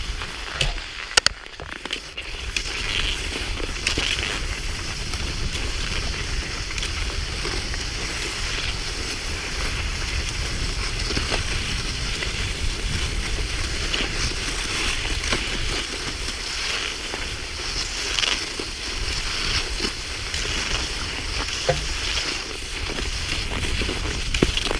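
Cross-country skis swishing and crunching over a snowy ski track, with an uneven stride rhythm and a steady rumble of wind on the microphone.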